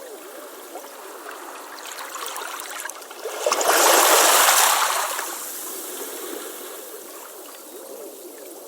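Ocean waves on a beach: water trickling and gurgling, then about halfway through one wave surges up loudly and washes back down.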